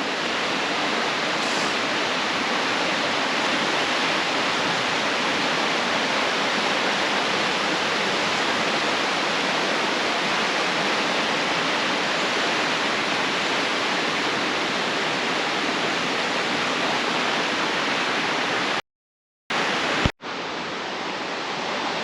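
Steady rushing of a storm-swollen river running high through a gorge, the water loud and even. The sound cuts out suddenly for about half a second near the end, then resumes slightly quieter.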